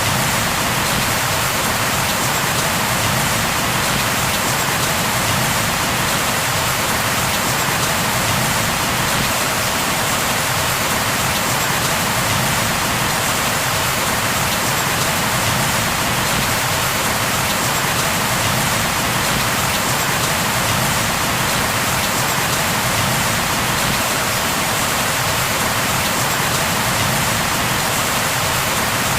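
Steady rain falling on a surface, an even hiss with no thunder or other distinct events.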